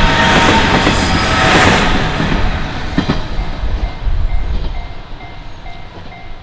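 A train passing over a level crossing, its wheels rumbling loudly for the first two seconds or so and then fading away. As the train noise dies, the crossing's warning bell comes through, ringing steadily at about two and a half strikes a second.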